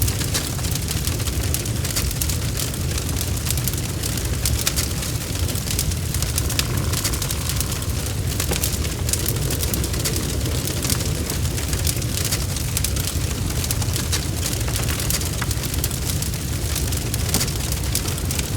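Wood fire burning in a fireplace: dense crackling, many sharp clicks, over a steady low rumble.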